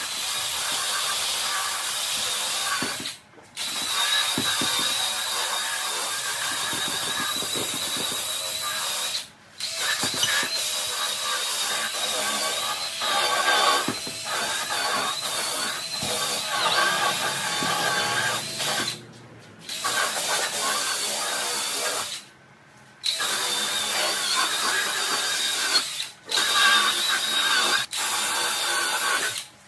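Cordless drill spinning a scrub brush against upholstery, its motor whining steadily, stopping and restarting several times.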